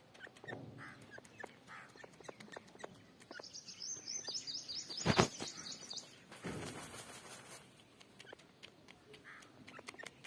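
Birds chirping, with a rapid run of high chirps about three to six seconds in, among scattered light clicks and one loud knock about five seconds in.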